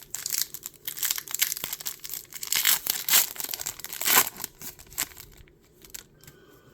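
Foil-and-plastic Pokémon booster pack packaging crinkling and tearing as it is opened by hand, dense crackly snaps for about five seconds before it goes quiet.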